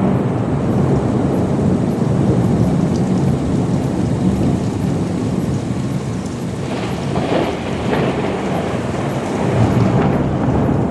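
Thunder rumbling over steady rain, a continuous low rolling noise that swells a couple of times, about seven seconds in and again near the end.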